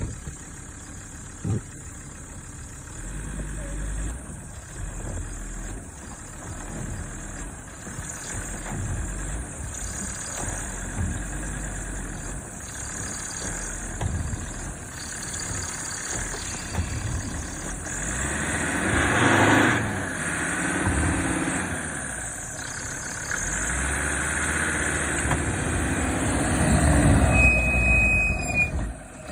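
Land Rover Defender 110 engine running after a cold start, its sound rising in surges as the vehicle works its way out of snow, loudest about two-thirds of the way through and again near the end.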